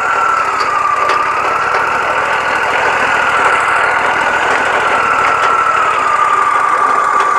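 Wood-Mizer LT40 Wide band sawmill running, its blade cutting through a yellow pine cant with a steady whine that wavers slightly in pitch over the engine's drone.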